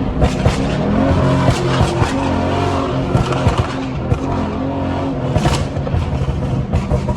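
Several loud car engines running and revving, with exhaust crackle and some music mixed in.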